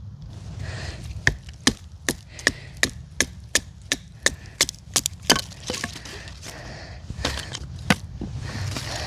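Wood being chopped with a blade: a steady run of about a dozen quick, sharp chopping strokes, roughly three a second, then a few scattered strokes near the end.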